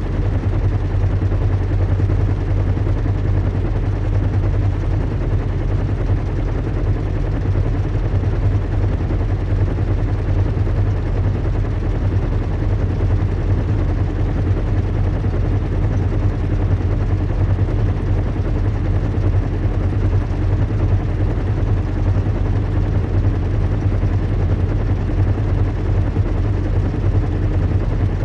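Steady low drone of a zeppelin airship in flight: engines and propellers running evenly with a fast flutter, the sound heaviest in the deep bass, with a faint hiss above.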